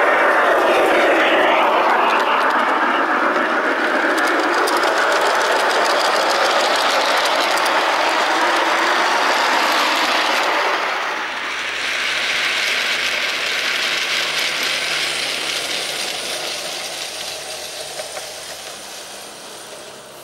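Garden-scale model train running along the outdoor track: a loud, steady rumble of wheels on rail, close for about the first ten seconds, then easing and fading away toward the end as it moves off.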